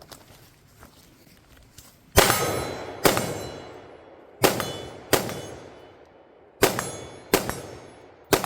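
Gunshots fired in pairs, seven in all, starting about two seconds in, each followed by the long metallic ringing of struck steel targets.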